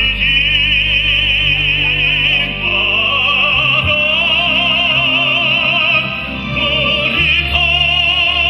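Classical-style solo singing with wide vibrato on long held notes, over sustained instrumental accompaniment.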